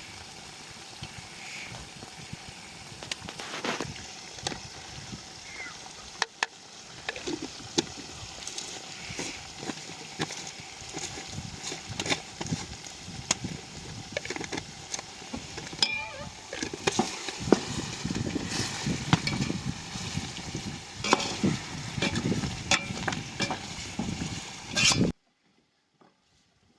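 Food frying and being stirred in a cooking pot: a steady sizzle with many sharp clicks and scrapes of the utensil. It cuts off suddenly near the end.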